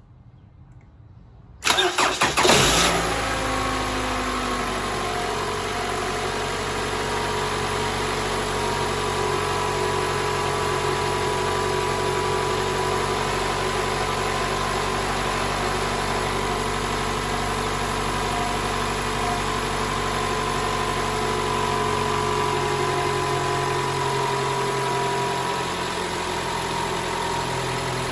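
Toyota 2AR-FE 2.5-litre four-cylinder engine cranked briefly by the starter about two seconds in, catching at once and settling into a steady idle. No rattle is heard on start-up, the sign that the replaced spring in the VVT-i intake cam gear has cured the rattle.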